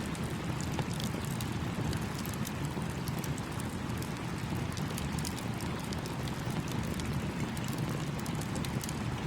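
Campfire crackling, with frequent small pops scattered throughout, over the steady rush of a small babbling stream.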